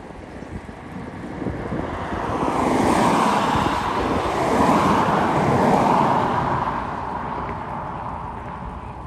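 A vehicle passing by: its tyre and engine noise swells, peaks in the middle and fades away again, with wind rumbling on the microphone.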